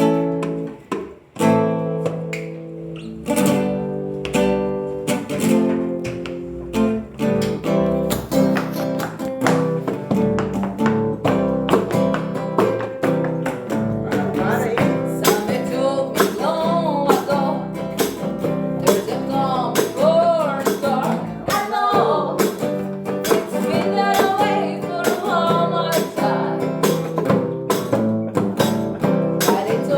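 Acoustic guitar strummed in steady chords, with a short break about a second in. A singing voice comes in over the strumming about halfway through.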